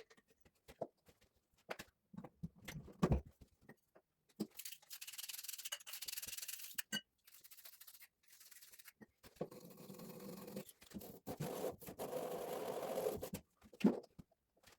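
Scattered knocks and clicks, then two long spells of scraping or rubbing, the first brighter and the second lower, with a last knock near the end.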